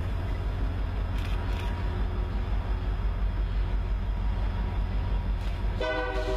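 Diesel freight locomotives (a UP SD70M and an NS D9-44CW) running with a steady deep rumble; near the end a locomotive air horn starts blowing a chord of several tones.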